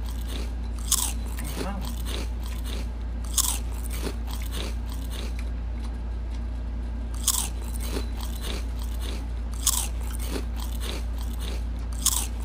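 A person chewing fresh raw jir-jir leaves close to the microphone: five crisp crunches about every two and a half seconds, with softer chewing sounds in between.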